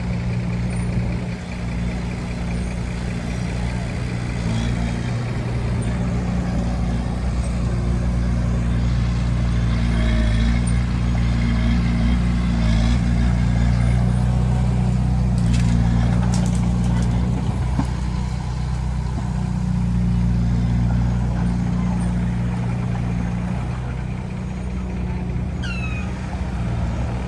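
Bulldozer's diesel engine running steadily, swelling slightly louder midway. A few short high chirps sound near the end.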